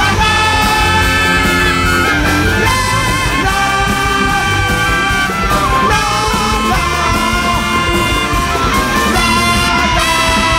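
Big jazz band with a horn section playing live and loud: saxophones and trumpet hold sustained notes over drums and bass.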